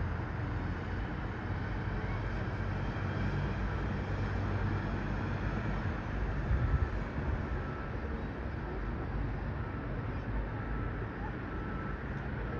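Steady low outdoor rumble, with a brief louder swell about six and a half seconds in.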